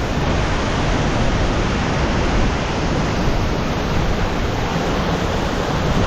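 Waterfall roaring: a loud, steady rush of falling water with no break.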